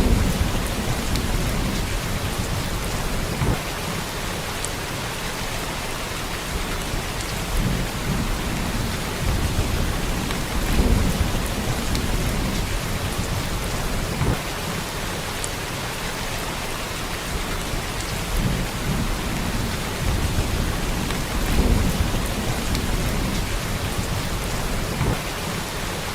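Steady heavy rain, an even hiss, with deep rumbles of thunder swelling up every few seconds, the strongest about eleven and twenty-two seconds in.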